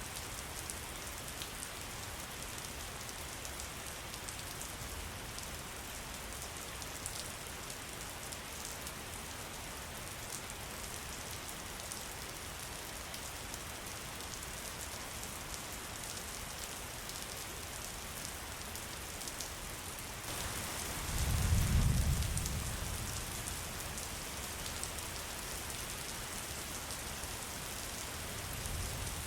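Steady rain falling, with fine ticks of drops. About two-thirds of the way through, the rain grows a little louder and a low rumble swells for a couple of seconds.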